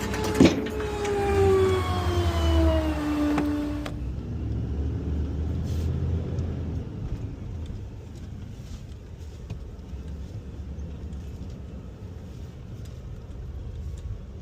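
Rear-loader garbage truck's hydraulics whining under load. There is a sharp knock about half a second in, then the pitch slides down in steps and the whine cuts off about four seconds in. After that, only the truck's engine runs low and steady.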